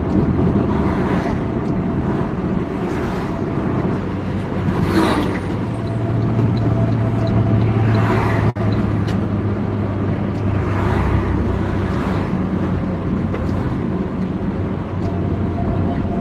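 Road traffic with heavy vehicles such as trucks and buses passing one after another, each a noisy swell that comes and fades over a steady low diesel engine drone. The sound cuts out for an instant about halfway through.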